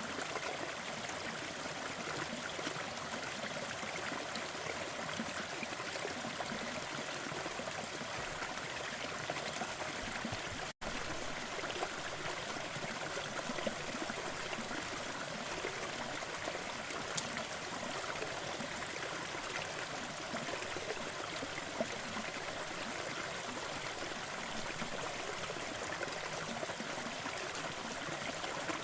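Waterfall: a steady rush of falling and splashing water, cutting out for an instant about eleven seconds in.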